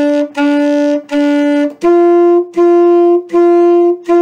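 Saxophone playing a simple pattern of short, separately tongued notes, about a note and a half per second: three on a lower pitch, then, a little under two seconds in, four on a higher pitch.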